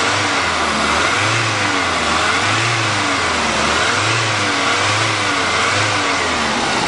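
Turbocharged Volvo car engine, recently overheated, revved up and let fall back about five times in a row, its pitch rising and dropping each time. To the owner it sounds pretty good, though not perfect.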